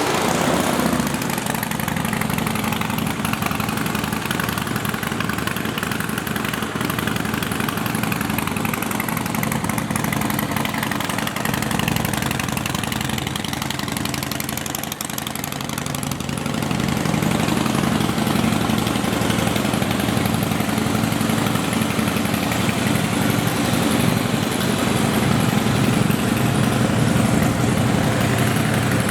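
2017 Harley-Davidson CVO Pro Street Breakout's Twin Cam 110 V-twin idling through a Vance & Hines aftermarket exhaust. It runs steadily and gets somewhat louder a little past halfway.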